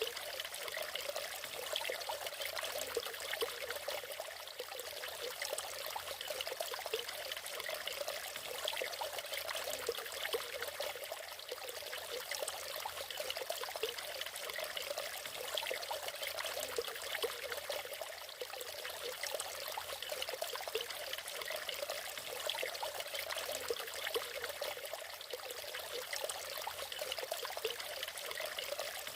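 Small natural waterfall: water splashing and trickling steadily, without pause.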